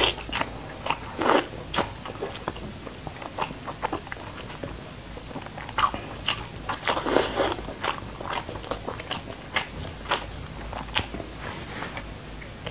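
Close-miked mouth sounds of eating thick slices of fatty pork belly: wet biting, chewing and lip smacks, many short clicks throughout, with louder bites about a second in and again about seven seconds in.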